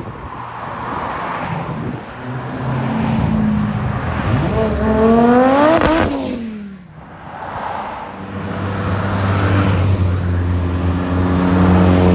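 Classic racing cars going past at speed: one engine climbs in pitch as it accelerates, passes loudest about six seconds in and drops in pitch as it moves away, then another car's engine grows louder near the end.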